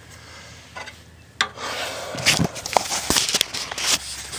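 Handling noises: quiet at first, then a sharp click about a second and a half in, followed by a few seconds of rubbing and scraping with many small clicks.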